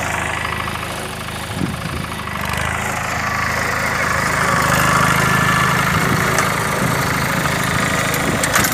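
Captain mini tractor's small diesel engine running steadily, working a reversible plough; it gets a little louder a few seconds in, with a brief rattle of clicks near the end.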